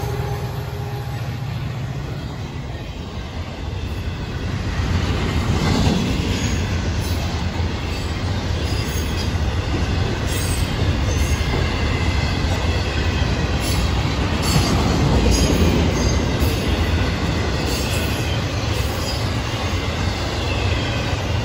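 Freight train's container cars rolling past on steel rails: a steady rumble of wheels with scattered clicks and faint intermittent wheel squeal, a little louder from about five seconds in.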